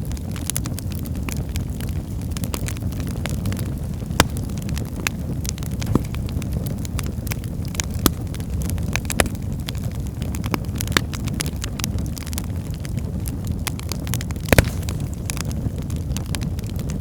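Wood fire burning in a fireplace: a steady low rumble with frequent small crackles and a few louder, sharp pops from the burning logs.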